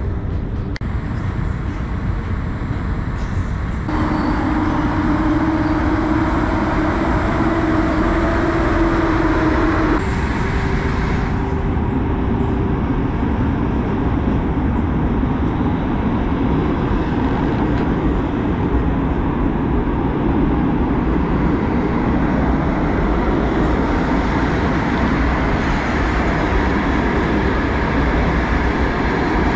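Passenger train running, a steady rumble of wheels on the track. A steady hum joins in about four seconds in and drops out about ten seconds in, where the sound changes abruptly.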